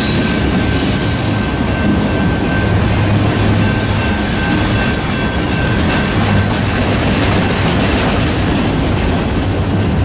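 Freight train rolling past, a loud steady rumble of wheels on rail with a thin high tone running steadily over it.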